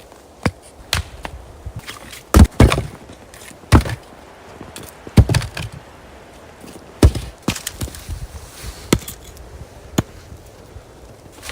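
Wood being chopped: about ten sharp blows at uneven intervals, a few of them much heavier than the rest.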